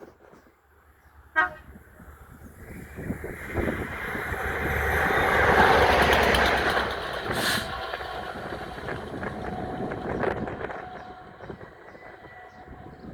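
Class 67 diesel-electric locomotive running light: a short horn toot about a second in, then the locomotive's engine and wheels passing by, building to a peak around the middle and fading away.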